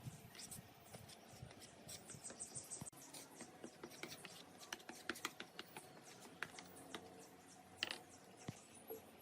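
Faint, irregular clicks, taps and scratching, loudest near the end, with a short train of high insect chirps about two seconds in.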